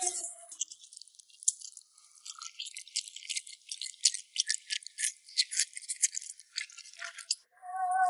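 Rapid, irregular crisp crackles and clicks from food, thinning out briefly about two seconds in and stopping shortly before the end.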